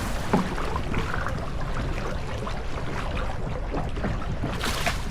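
Rowing boat moving through the water: a steady rush of water and wind noise, with a brief louder splash-like burst near the end.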